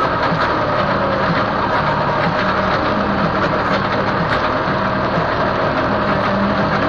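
Farm tractor's engine running steadily at an even, unchanging speed.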